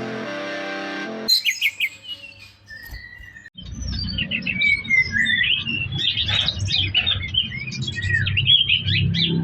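A songbird singing hard: a dense run of rapid, varied high chirps, whistles and trills that grows busier after a few seconds. It follows the tail of a rock-music intro that ends about a second in.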